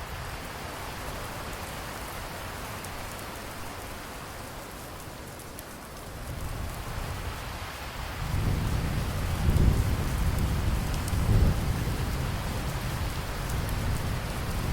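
Steady rain with a low roll of thunder building from about halfway through, swelling twice before easing back under the rain.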